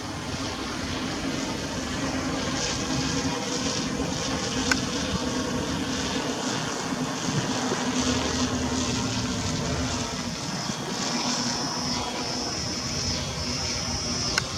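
A motor drones steadily with a low hum, against general outdoor noise. From about two-thirds of the way in, a high-pitched steady buzz comes and goes in short stretches.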